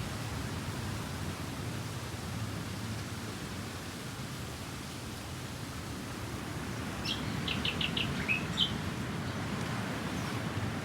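A bird calling a little past halfway: a quick run of about five short, high chirps, then two more notes, over a steady rush of wind and surf.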